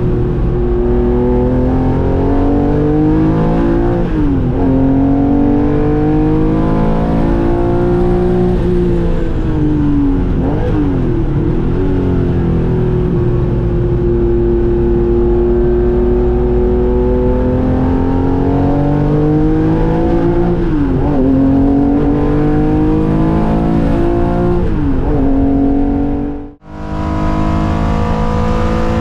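Porsche air-cooled flat-six race engine lapping at high revs, its pitch rising and falling as it pulls through the gears, with several quick dips at gear changes and lifts. The sound breaks off sharply for an instant near the end, then resumes.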